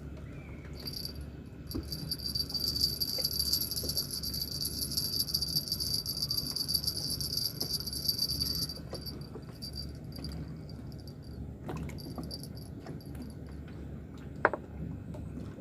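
Insect buzzing: a loud, high-pitched pulsing drone that starts about a second in, holds for about eight seconds and stops, then comes back briefly later. Under it is a steady low rumble, and a single sharp click comes near the end.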